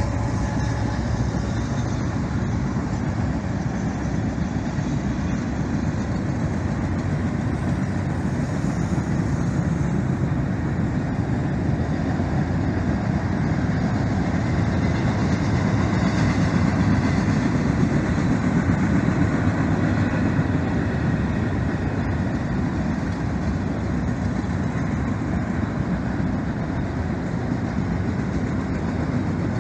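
Freight train passing: the diesel-electric locomotives, a BNSF SD70ACe and a Canadian Pacific ES44AC, drone at the start, then a steady rumble of freight cars rolling on the rails.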